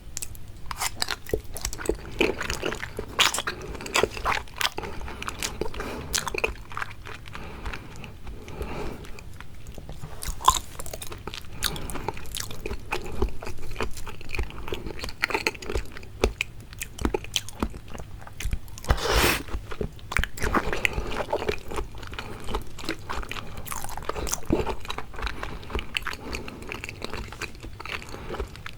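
Close-miked chewing and biting of seafood: dense, sticky clicks and crunches that begin abruptly, with one especially loud bite about 19 seconds in.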